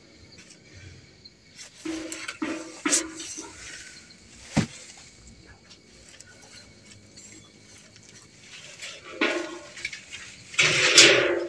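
A man's breathy non-verbal vocal sounds, heavy exhalations and low groans, from a medium going into trance, the loudest one near the end; a sharp click about four and a half seconds in.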